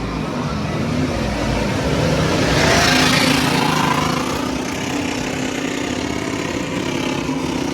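Motor vehicle engines running, with a loud swell of engine and road noise that peaks about three seconds in and then settles back to a steady run.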